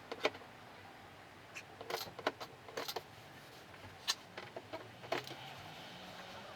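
Scattered light metallic clinks and taps, a handful of short sharp ones spread over several seconds, as metal tools are handled during car body-panel repair, over a faint low steady hum.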